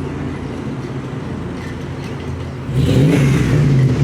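BMW G80 M3's twin-turbo inline-six with a titanium exhaust running steadily at low revs, then revving up sharply nearly three seconds in and staying loud.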